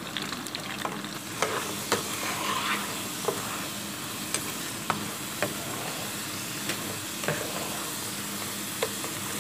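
Sliced taro root (arvi) sizzling steadily as it fries in ghee in a pan, with a spatula stirring the slices and knocking against the pan in sharp clicks about once a second.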